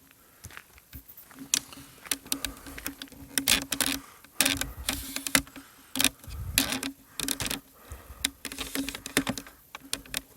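Irregular crunching clicks and taps, dense in places with a few heavier thumps, and a low hum that comes and goes with them.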